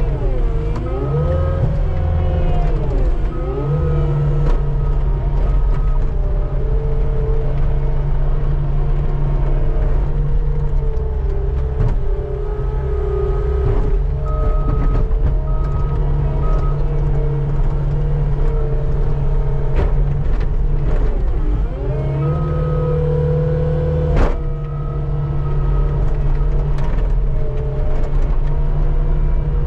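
Skid steer's diesel engine running hard while its bucket scrapes snow off pavement; the engine note dips and recovers under load near the start and again about two-thirds through. Short repeated beeps come and go, and there is one sharp knock about four-fifths of the way through.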